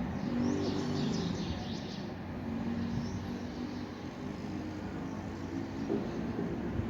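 Small birds chirping in a quick flurry during the first two seconds, with a faint chirp a second later, over a steady low rumble.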